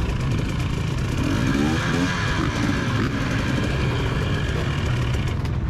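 Two-stroke motocross bike engine running hard under the on-board microphone, its pitch sliding up and down as the throttle is worked.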